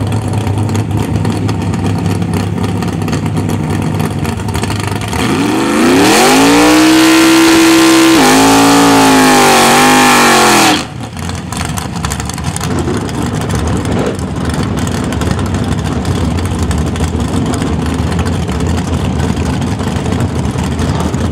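Drag car engine idling, then revved up hard about five seconds in and held high as the rear tyres spin in a burnout, with a hiss of tyre noise over it. The revs dip and waver, then cut off suddenly about eleven seconds in, and the engine drops back to idle.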